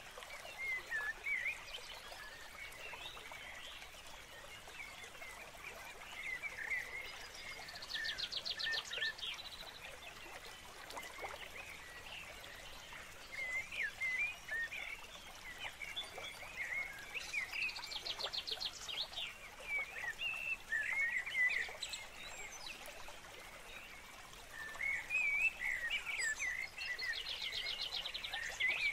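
Birds singing: quick chirping phrases throughout, with a buzzy trill about every ten seconds.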